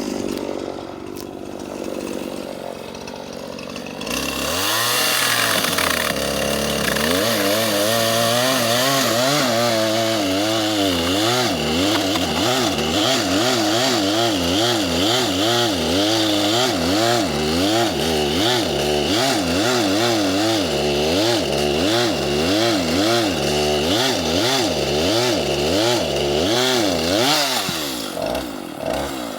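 Two-stroke chainsaw running at a lower speed, then opened up to full throttle about four seconds in to cut into a tree trunk. At full throttle its engine speed surges up and down about once a second instead of holding steady, which the operator wonders may be due to the cooler morning air.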